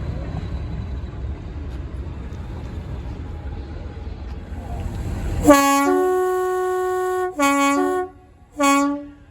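Low rumble of a passing or running train, then a two-tone train horn about five and a half seconds in. It sounds a low note, then a long high note, then low and high again briefly, and a last low note that ends just before the finish.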